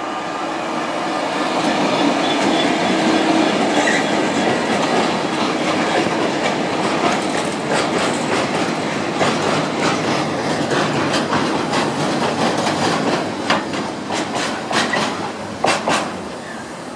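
Freight train passing close: an EWS Class 66 diesel locomotive goes by first, followed by a long rake of loaded steel coil wagons rumbling past. Their wheels click over rail joints and points, the clicks coming thicker near the end before the sound falls away.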